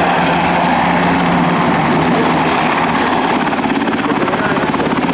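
Sikorsky UH-60 Black Hawk helicopters flying overhead: a loud, steady rotor and turbine noise with a fast, even rotor beat that grows plainer about halfway through.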